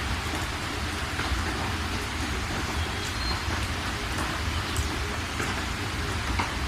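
Steady rain falling, an even hiss with individual drops ticking out here and there, over a constant low rumble.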